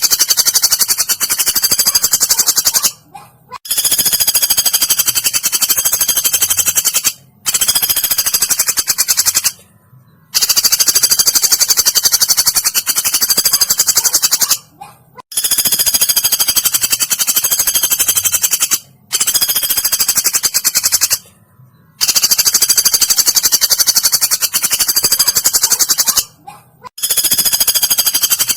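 Woodpecker calls played as a bird-tutoring recording: long, very fast, high-pitched rattling trills. They come in runs of a few seconds each, about eight of them, with short breaks between.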